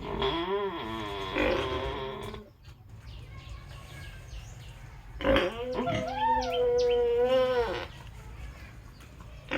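Pig calling: two long, pitched squealing calls, each about two and a half seconds, the second starting about five seconds in.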